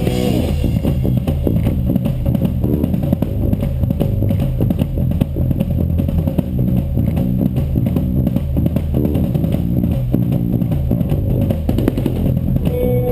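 Live band music: an instrumental passage led by guitar, loud and steady, with no singing.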